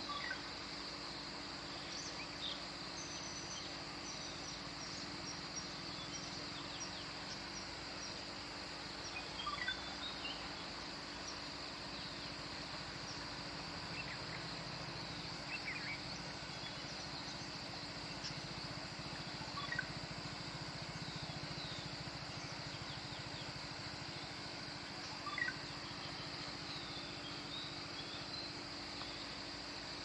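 Birds chirping in short, scattered calls, with a handful of louder calls every few seconds, over a steady high-pitched hiss.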